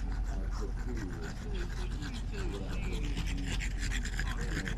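Rapid rasping, scraping strokes, with a faint wavering voice-like sound underneath and a steady low hum.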